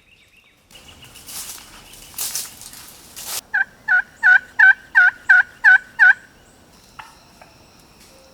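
Wild turkey sounds: a couple of rasping bursts, then a run of eight evenly spaced yelps at about three a second.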